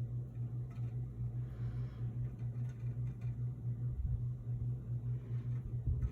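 A steady low hum, with faint rustling and a couple of soft low bumps about four and six seconds in.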